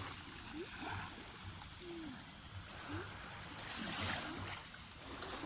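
Small waves of a calm sea lapping and washing on a sandy shore, a soft, even wash.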